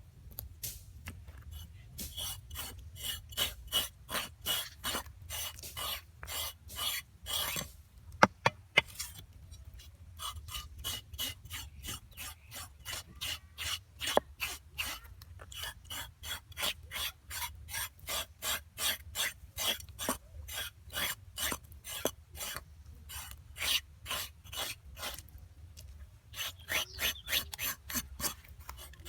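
Repeated rasping, scraping strokes at about two to three a second, in long runs with a brief break about a third of the way in, plus a few sharp clicks.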